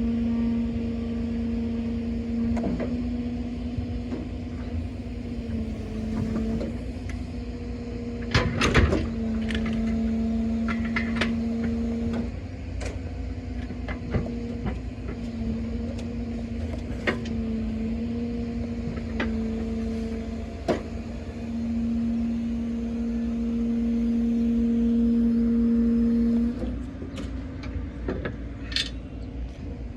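Truck-mounted loader crane working, its hydraulics giving a steady whine that dips briefly now and then as the controls are worked and stops near the end, with scattered sharp knocks and clanks, the loudest about eight seconds in.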